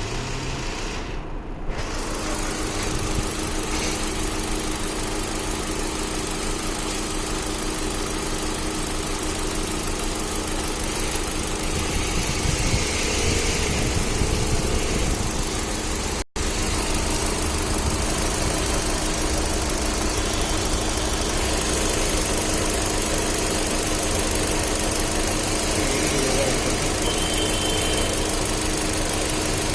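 Hyundai 1.2 Kappa VTVT four-cylinder petrol engine idling steadily with an even hum. It breaks off for an instant about halfway through, then carries on.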